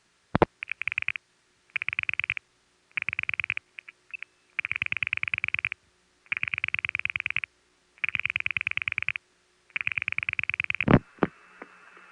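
Dial pulsing heard down a telephone trunk as a crossbar tandem outpulses to a step-by-step long-distance tandem: seven trains of rapid clicks, one per digit. A short pause with a few stray clicks comes after the third digit, where the far tandem flashes a second time (a secondary handshake). Near the end a loud click, then the hiss and faint steady tone of long-distance line noise.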